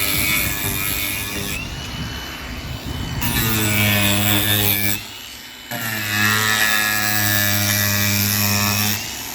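Electric drill running under load, boring into a wooden door with a 3mm bit. It runs in two stretches, dropping off for a moment about five seconds in, then spinning up again with a rising whine.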